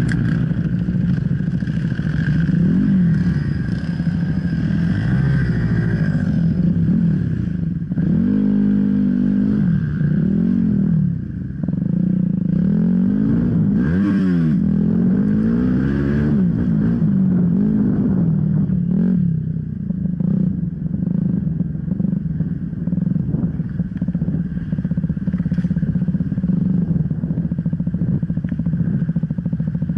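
Enduro motorcycle engine running under load, its revs rising and falling again and again as the throttle is worked on and off, with a few short knocks.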